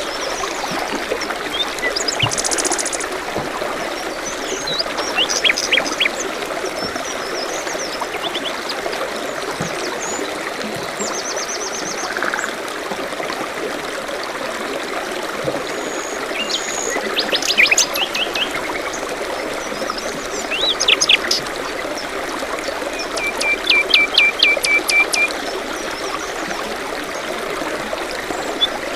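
A forest stream trickling steadily, with several songbirds calling over it: short high trills and quick runs of chirps a few times.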